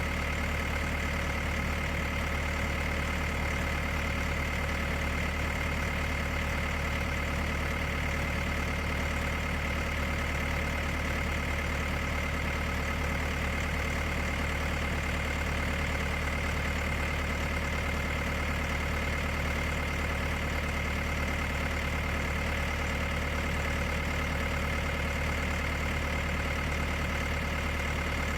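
An engine idling steadily, with a low rumble and a thin high whine that never changes in speed.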